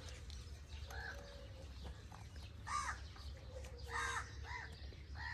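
Faint bird calls, short and harsh: one about a second in, another in the middle, and a quick run of three near the end.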